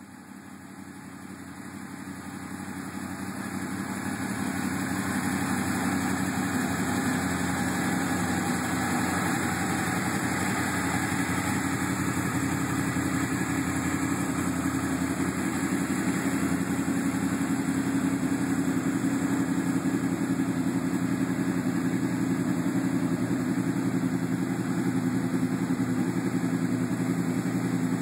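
Honda VFR800 VTEC's V4 engine idling steadily through an aftermarket Scorpion carbon exhaust, growing louder over the first few seconds and then holding even.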